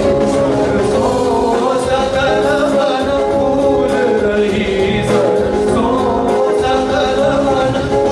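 Group singing with instrumental accompaniment and a steady percussive beat, in a piece built on monsoon ragas such as Malhar.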